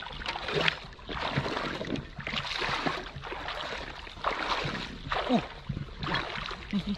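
Water sloshing and splashing in uneven washes about a second apart, with a few small knocks and clicks in between.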